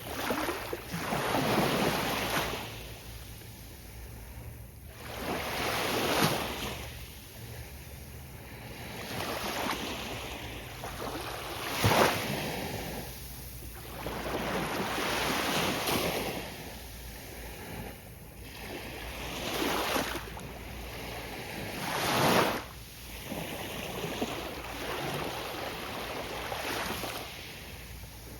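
Ocean waves breaking on a beach, one surge of surf every few seconds swelling and fading over a steady low rumble of the sea.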